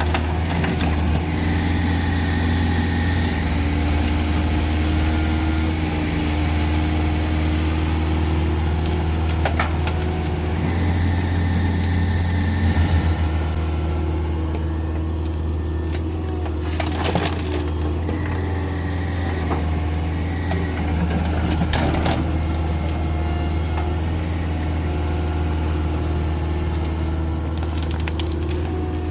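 CAT 305.5E2 mini excavator's diesel engine running steadily under load, with a higher whine that comes and goes and a few sharp knocks and crunches of the bucket and soil as it digs and loads a dump truck.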